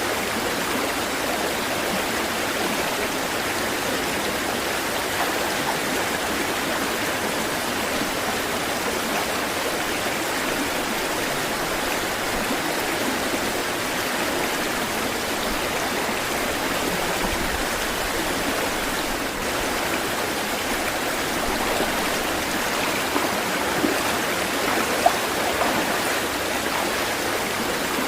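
Running water rushing steadily, with a couple of brief faint ticks near the end.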